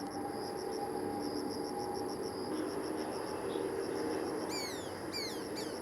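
Insects chirping in a steady high pulse, about three beats a second, with several falling bird whistles near the end. Under them runs a low steady drone of distant jet engines.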